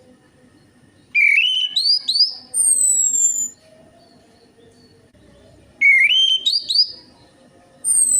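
Orange-headed thrush song played as a lure recording. Two phrases of quick, rising, stepped whistled notes, each followed by a high, thin, falling whistle.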